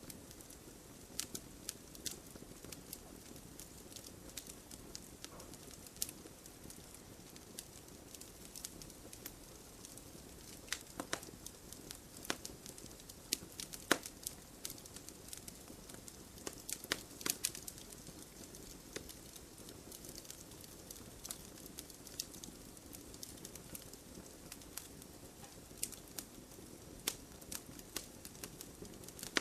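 Campfire crackling: irregular sharp pops and snaps, some close together in little clusters, over a soft steady rush of the burning fire.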